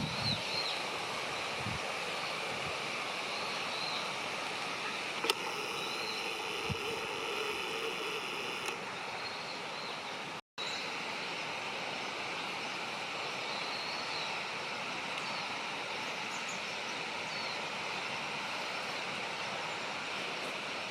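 Steady rushing outdoor background noise, with faint, short, high bird chirps now and then. The sound drops out for an instant about halfway.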